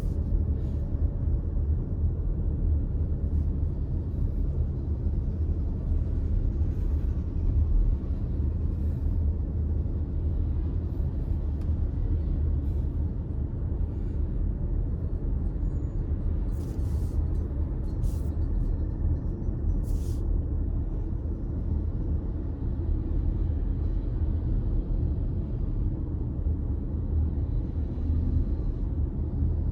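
Steady low rumble of a car driving, with road and engine noise heard from inside the cabin. A few brief clicks come about two-thirds of the way through.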